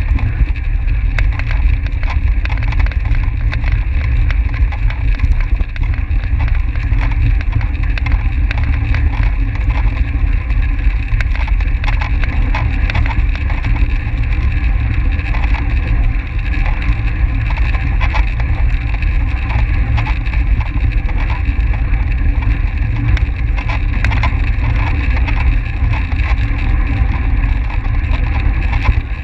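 Wind buffeting a microphone carried on a track bicycle at race speed: a heavy, steady low rumble and rush, with many small clicks and rattles from the moving bike.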